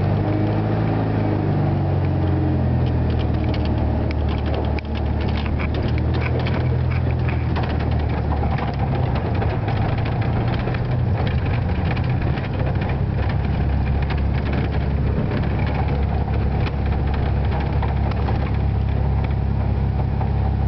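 The rebuilt 1600cc air-cooled flat-four engine of a 1973 Volkswagen Super Beetle running at low speed. Its pitch shifts over the first few seconds, then it holds steady.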